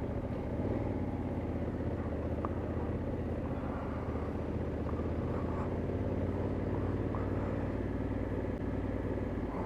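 Motorcycle engine running at a steady cruising speed, with road and wind noise while riding.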